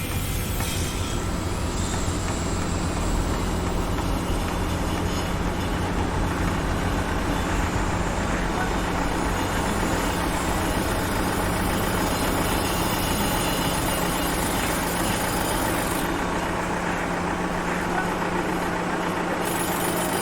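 A heavy engine on a construction site running steadily, with a constant low hum under a dense wash of site noise.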